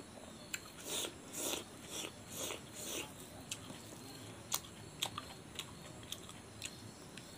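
Close-miked chewing and crunching of food, about five crunchy chews in the first few seconds, then quieter with sharp clicks scattered through.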